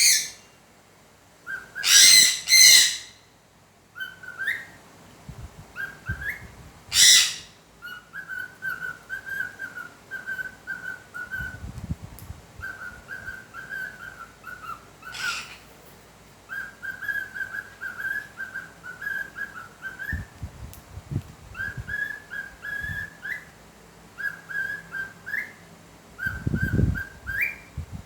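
A small pet parrot whistling a tune in short, repeated phrases of warbling notes, many ending in a quick upward flick. Three loud, harsh screeches break in, about two, seven and fifteen seconds in.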